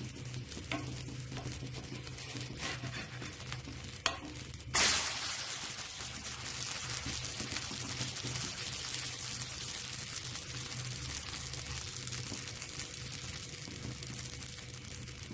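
Uthappam frying on a hot tawa: a low sizzle with a few light spatula taps, then a sudden, louder sizzle about five seconds in as it is flipped onto its uncooked side, hissing steadily after that.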